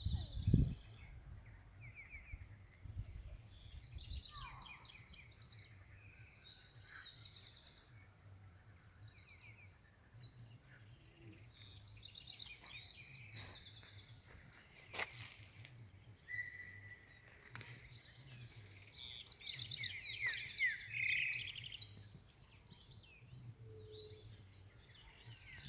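Several wild birds chirping and trilling in short, overlapping phrases, busiest near the end, over a low steady rumble. A single sharp click sounds about halfway through.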